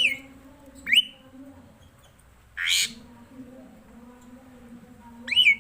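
Asian pied starling calling: short, sharp, upward-sweeping whistles at the start, about a second in and again near the end, with one harsh, rasping call in between.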